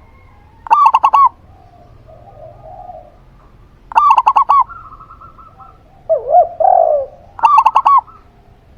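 A zebra dove (perkutut) and a spotted dove (tekukur) cooing in turn. There are several short phrases of quick repeated coos around 1 kHz, and one lower, swooping coo about six and a half seconds in.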